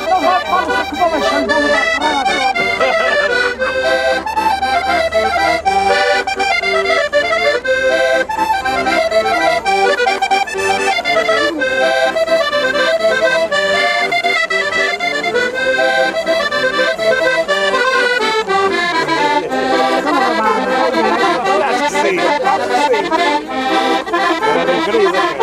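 Accordion playing a traditional tune in a run of short, quick notes.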